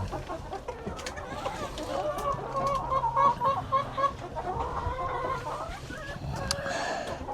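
Hens clucking, with a quick run of repeated clucks about two to four seconds in.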